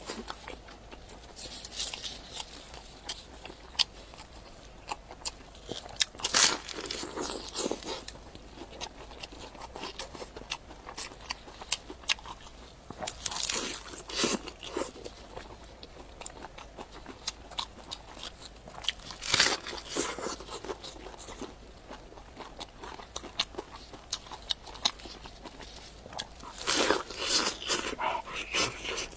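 A person eating close to the microphone: four bursts of crunchy biting and chewing, with quieter small mouth clicks between them.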